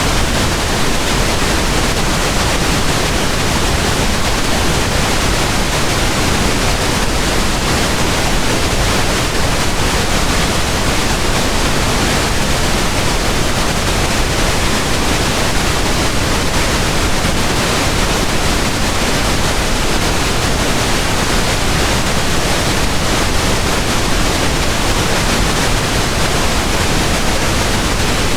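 Steady pink noise: an even, unchanging hiss spread across the whole range from low to high.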